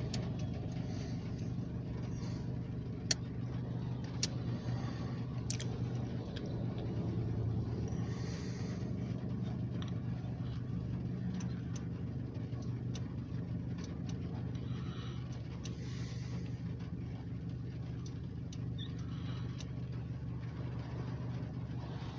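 Engine idling with a steady low hum, with scattered sharp ticks over it.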